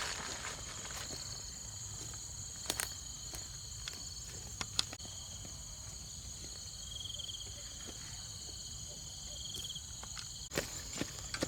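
Steady high-pitched chorus of insects, with a brief pulsing trill joining in twice. A few sharp clicks or snaps sound now and then, the loudest near the end.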